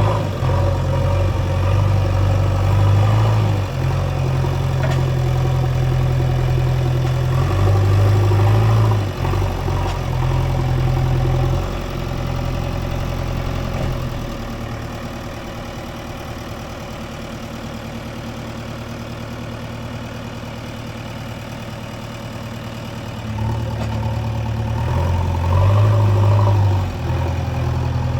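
Diesel engine of a JCB 3DX backhoe loader running while it works, its engine note rising and falling with the load. About halfway through it settles to a quieter, steadier note for several seconds, then picks up again near the end.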